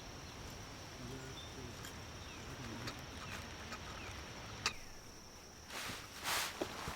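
Outdoor ambience: a steady high-pitched insect drone with a few faint chirps and a single sharp click. Shortly before the end the drone stops and gives way to brief rustling noises.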